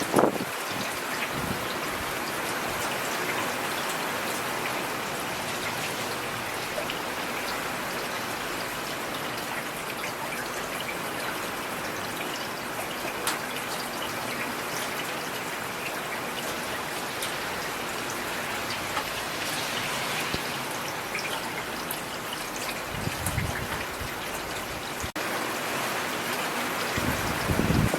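Steady rain falling, an even hiss of drops. Brief low rumbles come at the start, about 23 seconds in, and again near the end.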